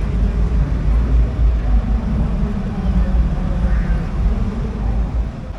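A crowd murmuring over a steady low rumble, with no bangs.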